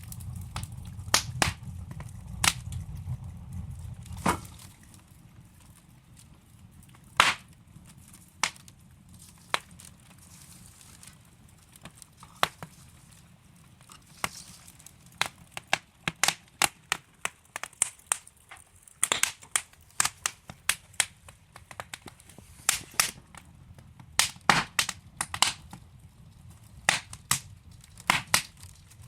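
Burning logs in a wood fireplace crackling with sharp pops and snaps. The pops are sparse at first and come much thicker from about halfway. A low rumble in the first few seconds fades out.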